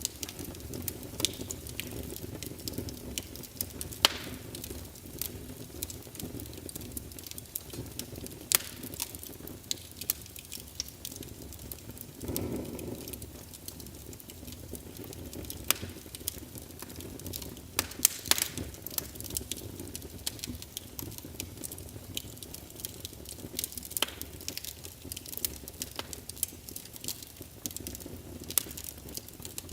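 Fire in a fireplace crackling, with irregular sharp pops over a low steady rumble. A brief louder rush of sound comes about twelve seconds in.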